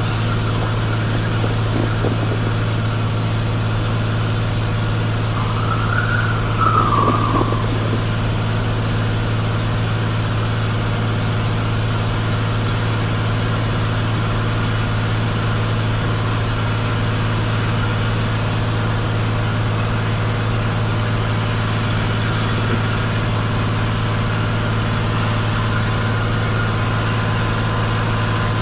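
Steady drone of a Cessna 182 Skylane's piston engine and propeller, heard inside the cabin in flight. A brief higher tone rises and falls about six seconds in.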